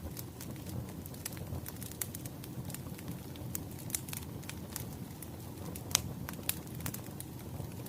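Wood fire crackling: a steady low rumble of burning logs with frequent sharp pops and snaps, one louder pop about six seconds in.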